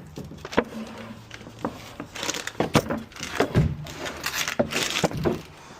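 Wooden panel board and particle board being handled and moved: a string of knocks, thuds and scraping clatters, busier in the second half.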